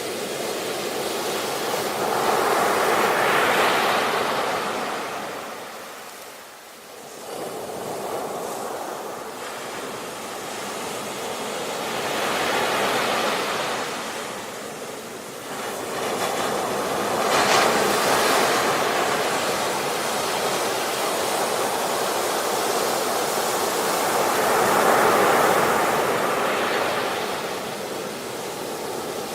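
Ocean waves breaking and washing on the shore, the surf swelling and falling back several times, once dropping briefly almost away.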